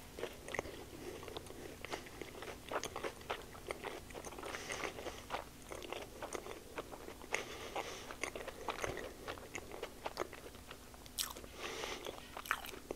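Close-miked eating of a maple-syrup-drizzled blueberry pancake-wrapped sausage: a bite, then chewing with many small mouth clicks and smacks throughout.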